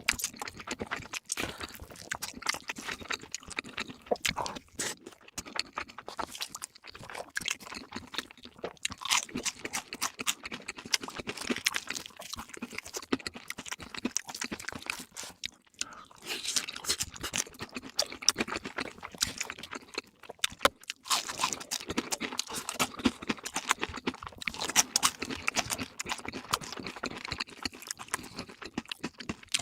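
Close-miked eating: steady chewing and crunching of fast food with many crisp crackles, dropping away briefly twice, about sixteen and twenty-one seconds in.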